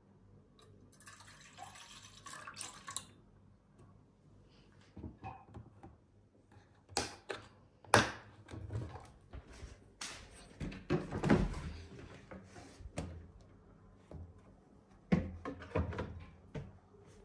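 Kitchen handling sounds while making a cup of instant coffee: a brief hiss about a second in, then several sharp knocks and clatters of cups, jars and utensils being picked up and set down, the loudest about eight seconds in.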